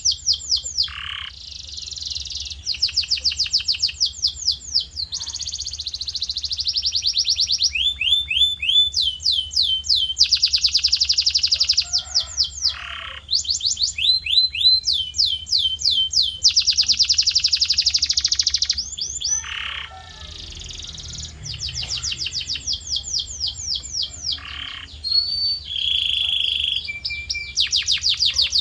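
Male domestic canary in full song: long rolling trills of rapidly repeated notes, switching every second or two to a new phrase at a different speed and pitch, with only brief breaks. A faint steady low hum lies underneath.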